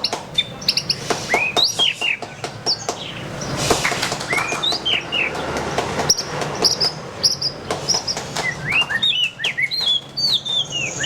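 White-rumped shama singing: a rapid run of short, varied whistles that rise and fall, interspersed with many sharp clicking notes.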